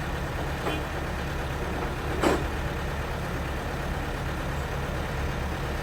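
An engine idling steadily with a low hum, and one short knock about two seconds in.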